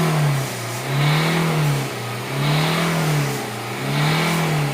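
Chevrolet Enjoy's engine being revved over and over, its pitch rising and falling about once every second and a half. The revving comes just after an engine carbon cleaning and is meant to blow the loosened carbon, dust and smoke out through the exhaust.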